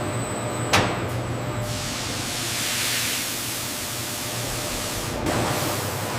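Steady hiss of a spray coater laying down a protective coating, swelling in the middle, over a low steady machine hum. A sharp click comes just under a second in.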